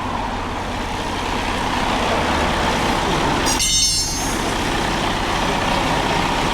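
Heavy interstate traffic, trucks and cars, passing close by as a steady rush with a low hum underneath, and a brief high hiss about three and a half seconds in.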